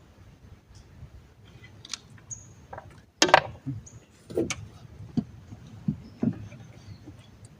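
A series of sharp knocks and thumps, the loudest about three seconds in, followed by four or five softer ones.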